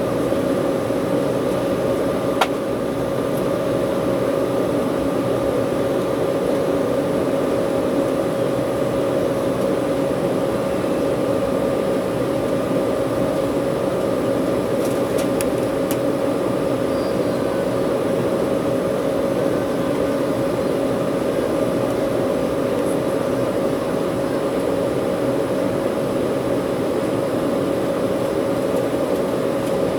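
Steady cabin drone of an Embraer 190 airliner on the ground before takeoff, the jet engines and cabin air ventilation making a constant hum with a steady whine. One sharp click about two seconds in.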